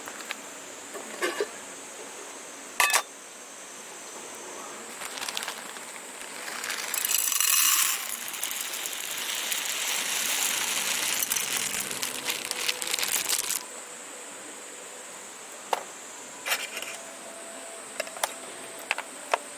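Small wood fire in a folding pocket stove crackling with scattered sharp pops. A hissing rush builds about seven seconds in and cuts off suddenly near the end of the second third.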